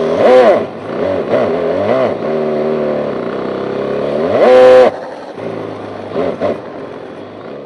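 Simulated engine sound from a homemade speaker-based sound unit on an RC drift car, revving in repeated blips that rise and fall in pitch. A long high rev about four and a half seconds in cuts off suddenly, followed by a lower, quieter steady note that fades out near the end.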